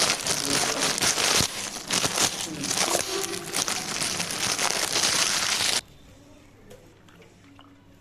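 Plastic bag crinkling and rustling as it is handled and opened, with many small crackles, cutting off suddenly about six seconds in.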